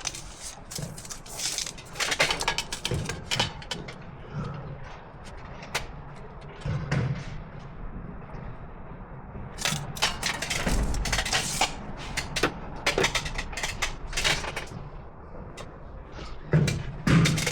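Irregular clicks, knocks and clatter of hands-on work, in clusters with short pauses between.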